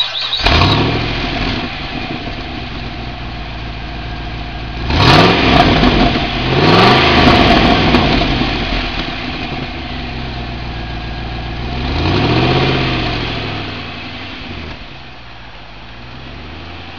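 2006 Pontiac GTO's 6.0 L LS2 V8 running through its stock exhaust, catching just after cranking and settling into a fast idle. It is revved a few times in quick succession about five seconds in and once more, smoothly up and down, about twelve seconds in, then goes quieter as the car pulls away.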